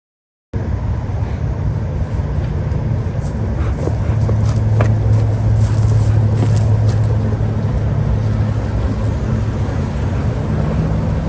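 Steady engine and road noise of a motor vehicle on the move, a low hum under a wide rush, starting abruptly about half a second in.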